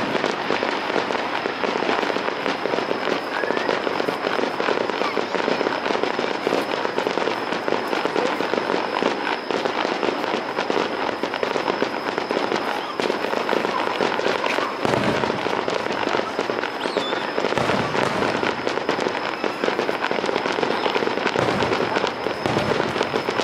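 Aerial fireworks bursting in a dense, continuous barrage of crackling and popping, with a few deeper booms about 15 and 18 seconds in. A thin steady high whine sits underneath.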